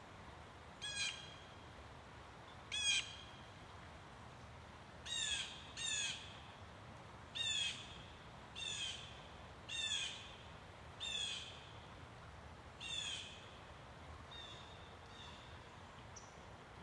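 A bird calling over and over: short calls that fall in pitch, one every second or two, growing fainter near the end.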